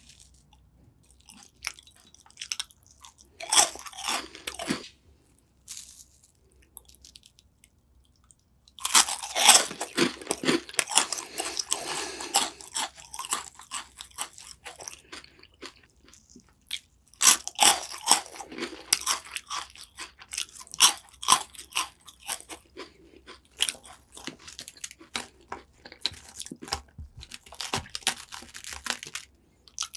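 Crisp biscuits being bitten and chewed right at the microphone, with loud crunching that comes in bouts. The longest bouts start about a third of the way in.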